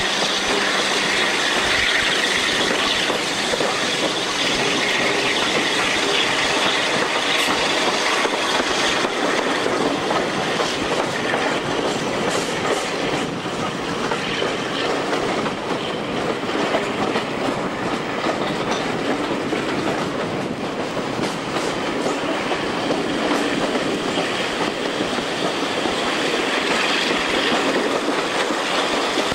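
Passenger coaches of a diesel-hauled heritage train running along the line, heard from an open carriage window: steady running noise, with the wheels clicking over the rail joints.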